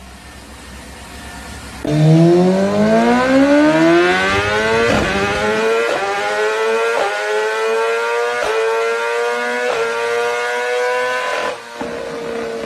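Superbike engine starting a hard acceleration about two seconds in, revs climbing, then running at high revs through about six quick gear changes, each a brief sharp break in the engine note, before easing off near the end.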